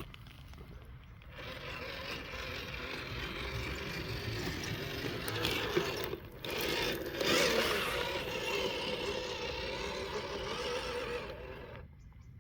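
WPL RC scale truck's small electric motor and gearbox whining as it drives. It starts about a second in, drops out briefly midway and stops shortly before the end.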